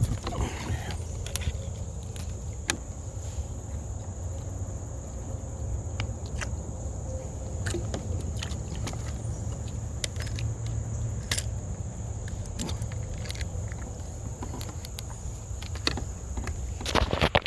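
A kayak being worked in close while a snagged fishing line is freed: scattered clicks and knocks of gear and hull over a steady low rumble, with a louder flurry of knocks near the end. A steady high thin whine runs throughout.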